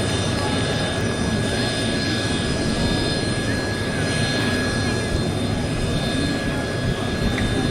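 Military turbine aircraft engines running steadily: a broad rush with a thin, steady high-pitched whine over it.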